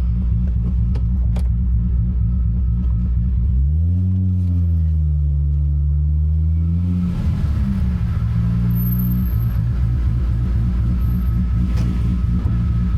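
Big-turbo Toyota Supra MK4's 2JZ-GTE inline-six running at low revs with a deep rumble. The engine note rises about four seconds in, eases back and holds, then shifts again before settling a few seconds later.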